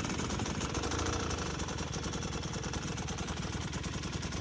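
Dirt bike engine running steadily at low revs, with an even, rapid firing beat.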